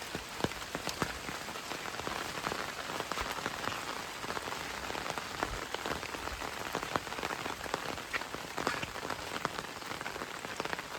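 Steady rainfall: an even hiss of rain with many separate drops ticking sharply close by.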